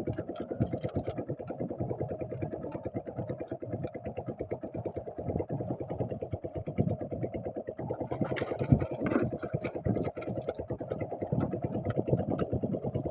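Small engine idling steadily with a fast, even chugging, with a brief burst of noise about eight seconds in.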